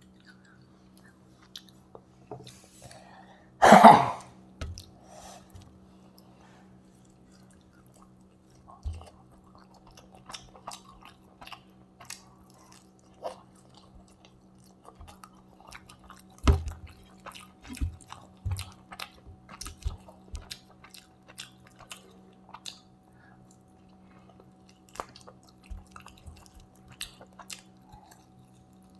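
Close-miked chewing and mouth sounds of someone eating chicken biryani with curry and onions: scattered wet clicks and smacks, with one much louder burst about four seconds in, over a faint steady hum.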